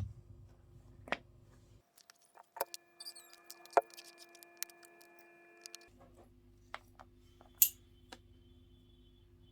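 Faint scattered clicks and taps, a dozen or so at irregular intervals, over a low steady hum that drops out for a few seconds in the middle.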